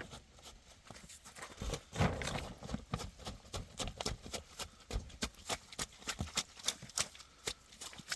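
A quick, irregular run of clicks and knocks, several a second, with a louder thud about two seconds in.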